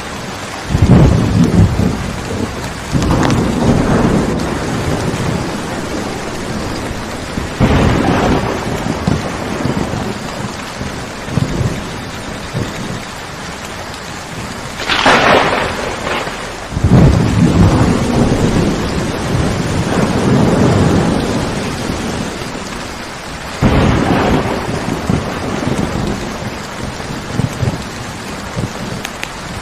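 Steady rain with repeated rolls of thunder, about six low rumbles a few seconds apart; the one about halfway through is sharper and brighter.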